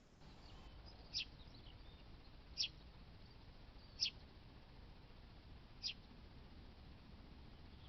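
A small bird chirping: four short, high calls about a second and a half apart, over faint outdoor background noise.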